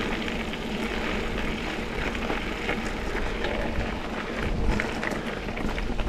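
Mountain bike rolling along a dirt double-track trail: a steady rush of tyre and wind noise with a low rumble and many small clicks and rattles from the bike.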